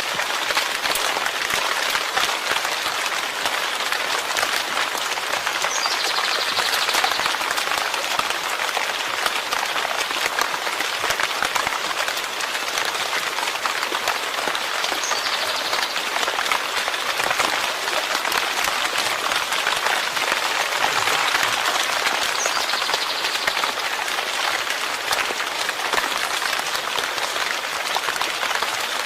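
Steady rain falling, a dense, even patter of countless drops on surfaces.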